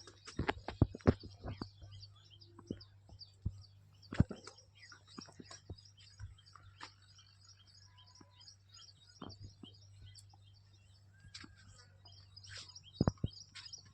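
Small birds chirping over a faint low steady hum, with scattered sharp clicks and knocks throughout.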